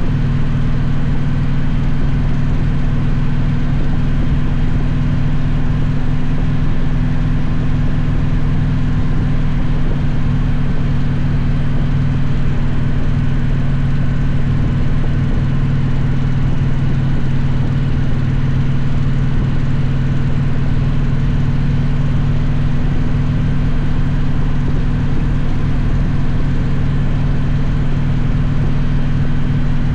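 Victory motorcycle engine running at a steady cruise, its low note holding one pitch with no revving or gear changes.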